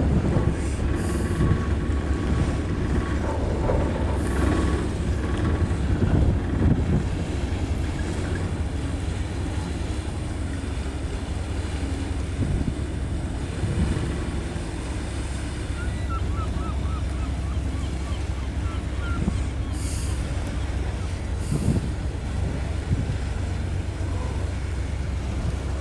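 Ferry's engines running with a steady low hum, with wind buffeting the microphone.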